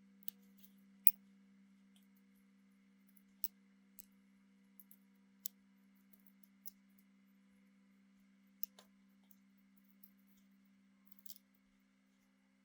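A steady low hum with scattered light clicks and ticks, about a dozen, the loudest about a second in.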